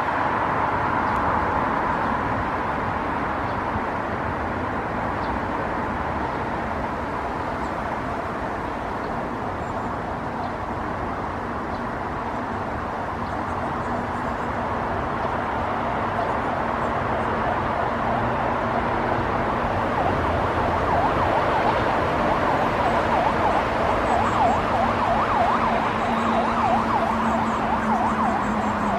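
Emergency vehicle siren over steady road traffic noise. The siren's wail grows stronger and warbles quickly in the second half, with a steady low hum joining about halfway.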